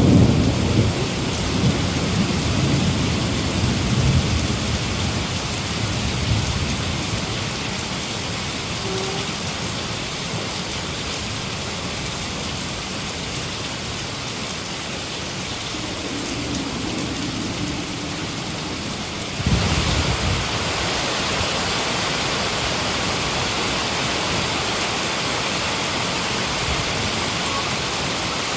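Heavy rain falling steadily, with a roll of thunder rumbling at the start and dying away over the first few seconds. About two-thirds of the way in, the rain suddenly becomes louder and hissier.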